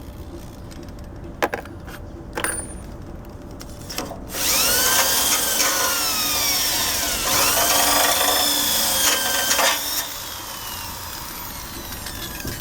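Power drill with a wire brush spinning against the bike's steel frame, scrubbing off rust and old paint. It starts about four seconds in after two light knocks, with a whine that sags and rises in pitch as the brush bites. It eases to a lower level after about six seconds.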